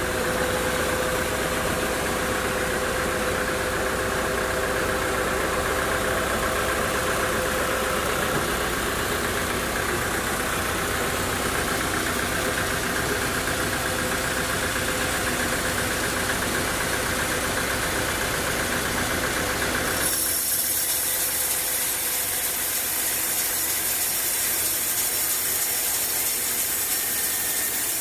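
Sawmill machinery running steadily, an engine and saw drive at work. About two-thirds of the way in, the sound changes suddenly to a high hiss with a thin whine.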